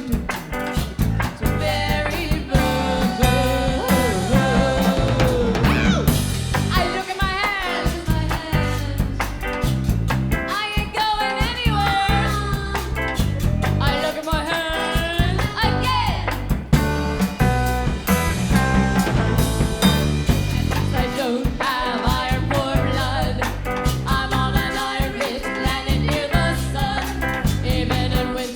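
Live rock band playing a song: drums, bass and guitar with a steady beat, and a lead line that bends and wavers in pitch over them.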